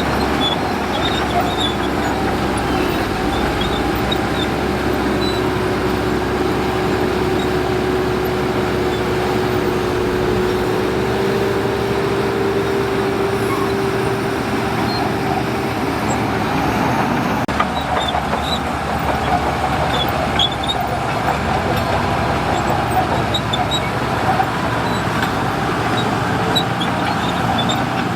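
Heavy diesel earthmoving machinery running steadily under work, with a steady whine that steps up slightly in pitch about eleven seconds in and fades out a few seconds later.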